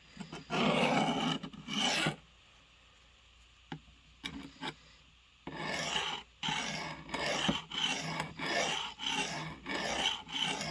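A blade being sharpened by hand, its edge scraping against an abrasive: two long strokes near the start, then after a pause a steady run of shorter strokes, about two a second. The edge still has a nick in the middle being worked out.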